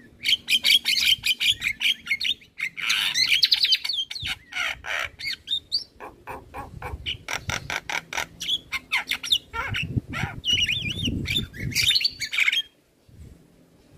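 Male Javan myna singing a fast, varied run of clicks, squawks and warbled whistles, full of mimicked notes. About ten seconds in it turns coarser and deeper for a couple of seconds, then pauses briefly near the end.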